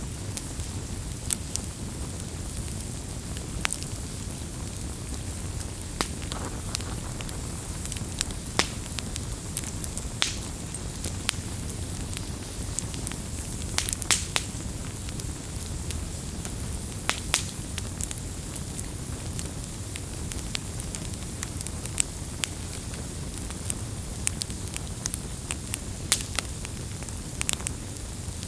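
Campfire burning steadily, with a low rumble of flames and frequent sharp, irregular crackles and pops from the wood.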